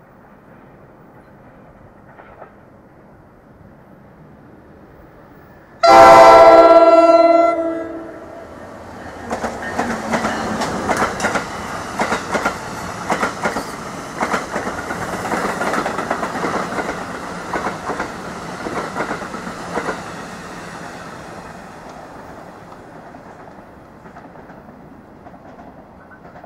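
An NJ Transit commuter train of double-deck coaches sounds one loud horn blast of about a second and a half, about six seconds in. It then rolls past with wheels clicking over rail joints and track noise, which fades away near the end.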